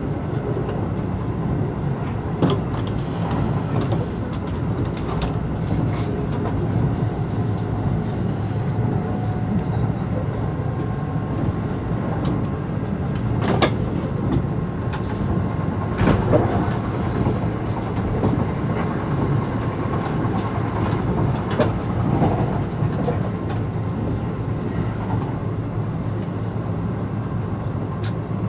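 Kintetsu 12200 series limited express train running at speed, heard from inside the passenger car: a steady low rumble of wheels on rails with a few sharp clacks, the loudest about halfway through.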